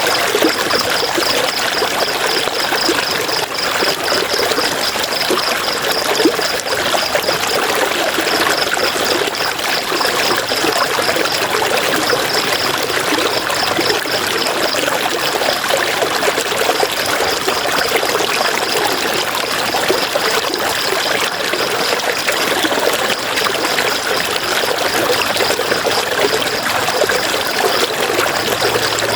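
River water rushing and churning in a steady, unbroken wash of noise. A high, rapidly pulsing trill runs over it, breaking off briefly several times.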